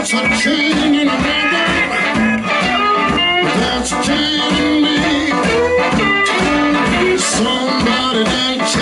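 Live blues band playing, guitar over drums and bass.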